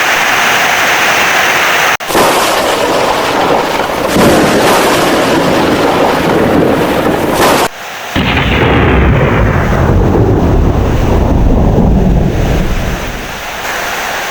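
Heavy rain with thunder: a loud, deep rumble of thunder builds about eight seconds in and eases off near the end, over the steady hiss of rain. The sound breaks off abruptly twice, about two and about eight seconds in.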